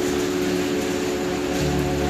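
Steady night rain hiss with a low, sustained drone of steady tones underneath; a deeper tone joins about one and a half seconds in.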